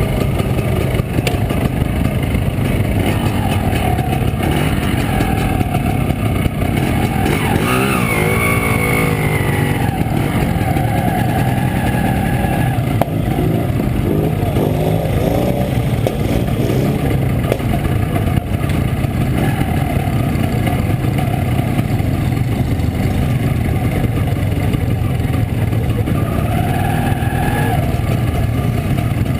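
Montesa Impala Comando 175 cc two-stroke single-cylinder engine running steadily. Its note shifts in pitch around eight seconds in and again near the end.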